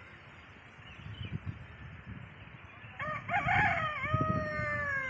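A rooster crowing once, starting about three seconds in and ending in a long, slowly falling note, over low irregular rumbling.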